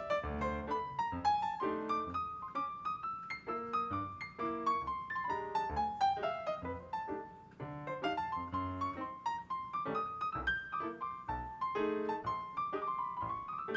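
Background piano music: a melody of struck notes over chords, the tune stepping downward in the middle and climbing again toward the end.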